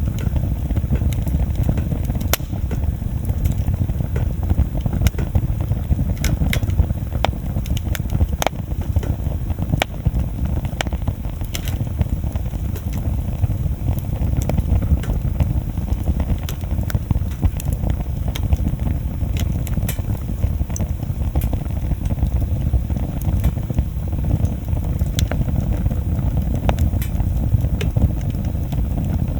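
Wood bonfire burning: a steady low rumble with frequent, irregular sharp crackles and pops from the burning wood.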